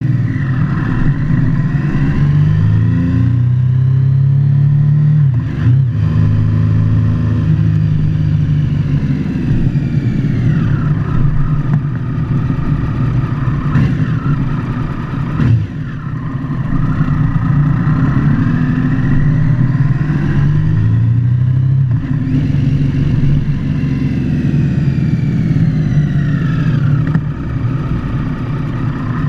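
Motorcycle engine running while riding, its pitch climbing as it revs up and dropping back several times as it shifts gears and slows, with a few short knocks along the way.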